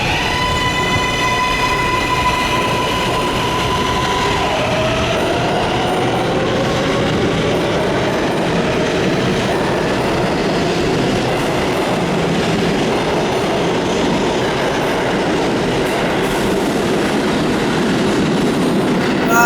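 R143 subway train pulling out of a station: a motor whine rises and holds for about four seconds, then a lower whine slowly climbs, over the steady rumble of the wheels on the rails.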